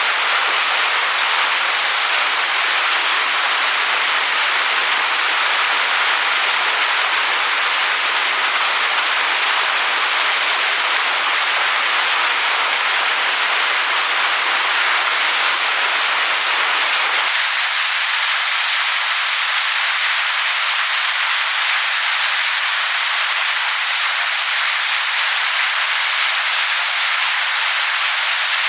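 Waterfall rushing steadily over rocks: an even, continuous hiss of falling water. About two-thirds of the way in the deepest part of the rush drops away abruptly, leaving it a little thinner.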